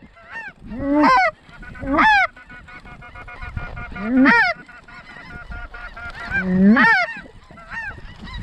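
Snow goose calls: about five loud, sharp honks, each rising then falling in pitch, over the fainter chatter of a calling flock.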